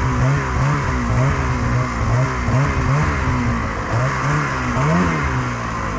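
Snowmobile engine running under load, its pitch rising and falling every half second or so as the throttle is worked, over a steady rushing hiss.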